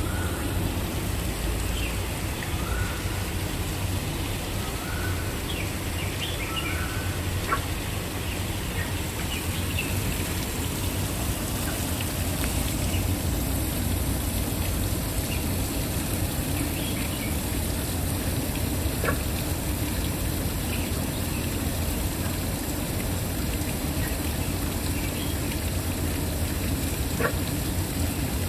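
Waterfall pouring in a steady rush, with faint short bird chirps here and there, mostly in the first half.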